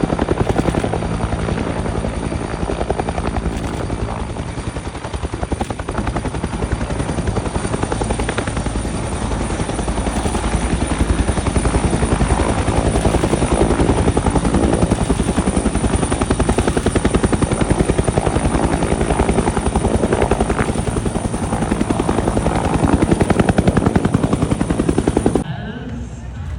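Aircraft flying at an airshow, its loud engine noise running steadily with a fast, even beat, then cutting off suddenly near the end.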